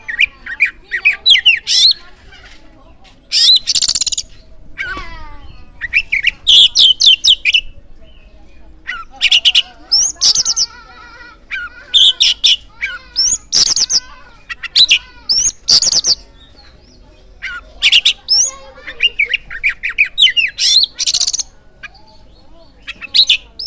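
Oriental magpie-robin song: many short, loud phrases of rapid high notes, each lasting up to about a second, with brief pauses between them.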